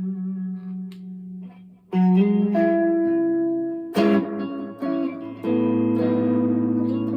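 Electric guitar played through a Behringer Centaur overdrive clone: a ringing chord fades, then fresh chords are struck about two, four and five and a half seconds in, each left to sustain.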